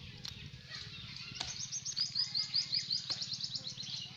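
A songbird singing a fast run of repeated high chirps, about eight a second, starting about a second and a half in and lasting some two and a half seconds.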